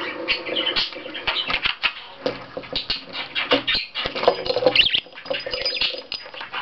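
Pet budgerigar chattering in short high squawks, over many quick clicks and taps from its beak and feet on a plastic weeble toy and the tabletop.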